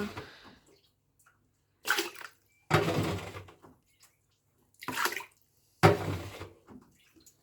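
Dirty water splashing and sloshing in four short bursts as it is scooped out of a blocked washing machine.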